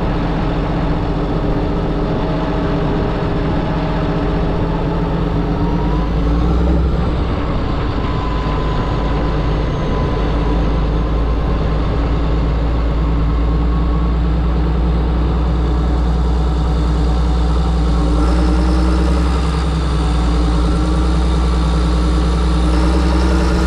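John Deere 7730 tractor's six-cylinder diesel engine running steadily. Its low hum deepens and strengthens about six seconds in.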